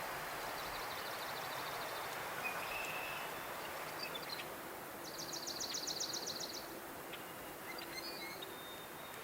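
Songbirds singing over a steady rushing background: a faint fast trill early on, scattered short chirps, then a louder, higher rapid trill around the middle.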